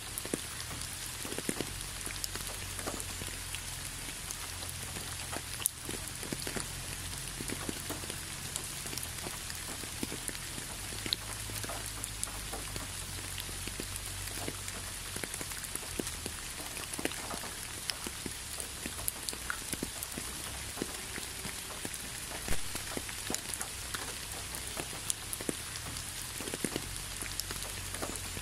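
Steady rain: an even hiss of falling rain with many separate drops ticking through it, and a couple of sharper drops standing out.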